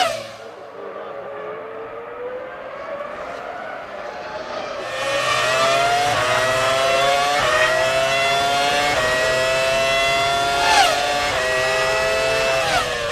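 Formula One cars' V10 engines at high revs, accelerating up through the gears, the pitch climbing and dropping back at each upshift about every second and a half. The engine note grows louder about five seconds in, and a car passes close near the end with a quick drop in pitch.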